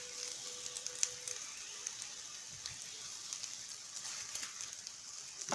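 Nems (spring rolls) deep-frying in hot oil: a steady sizzle with scattered small crackles.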